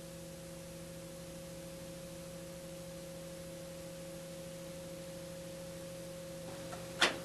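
Steady electrical hum made of a few held low tones over faint hiss, with a short click near the end.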